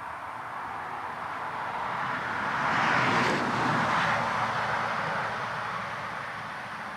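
A vehicle passing by, rising to its loudest about three seconds in and then fading away.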